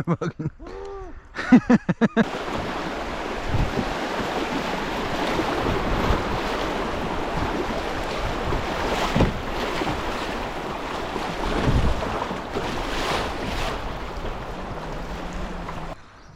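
Steady wash of rushing river water around a kayak on a whitewater stretch. It starts abruptly about two seconds in and cuts off just before the end.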